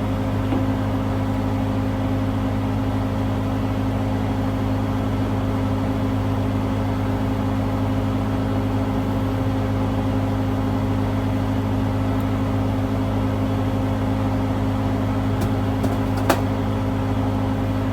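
A farm machine's engine running steadily at idle, giving an even low hum with no change in speed. There is a single sharp click about sixteen seconds in.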